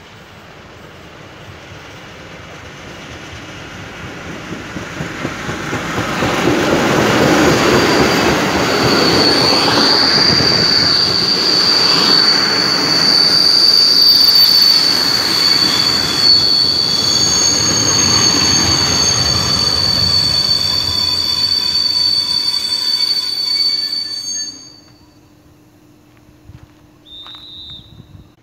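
Diesel locomotive-hauled passenger train approaching and passing close by. The sound builds to a loud, steady rush of wheels with rhythmic clatter over the rail joints, and a high steady wheel squeal sets in about nine seconds in. The noise falls away suddenly about twenty-four seconds in as the last coach goes by.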